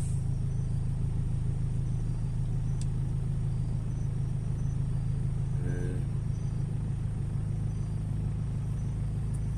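Steady low rumble of a car idling at a standstill in traffic, heard from inside the cabin.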